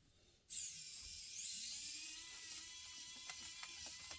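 Small electric screwdriver running for nearly four seconds, its motor whine rising slightly in pitch, with a few clicks.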